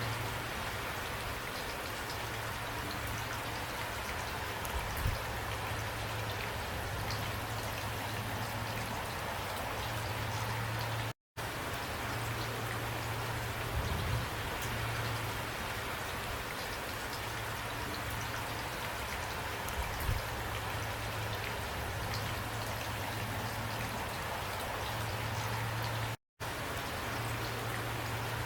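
Steady heavy rain, with individual drops ticking on a surface over a constant low rumble. The sound cuts out to silence for a moment twice, about 11 and 26 seconds in.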